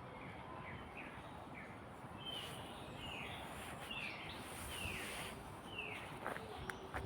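A songbird singing a run of short, quick downward-sweeping whistled notes, with a few softer chirps before it, over a steady background hiss.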